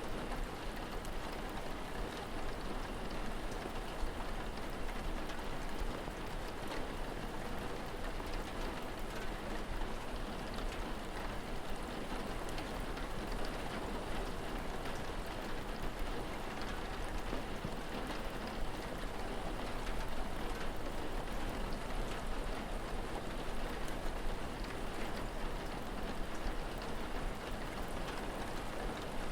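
Steady rain falling, a dense patter of drops with a low steady hum underneath.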